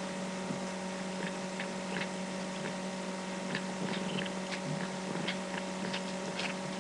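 Cat chewing and smacking on a piece of apricot, small irregular wet clicks, over a steady electrical hum.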